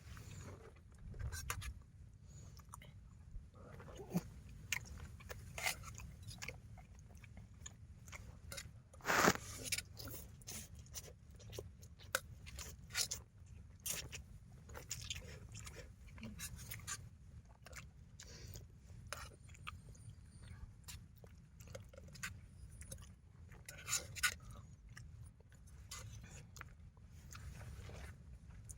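Crunching and chewing, with scattered clicks and taps, over a low steady rumble.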